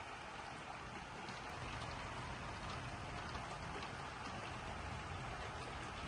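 Steady rain falling during a thunderstorm, with scattered drop ticks. About a second and a half in, a low rumble of thunder builds and carries on under the rain.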